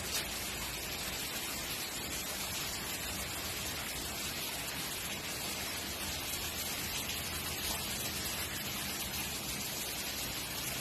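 Steady rain falling, a continuous even hiss of rain on the ground and surrounding surfaces.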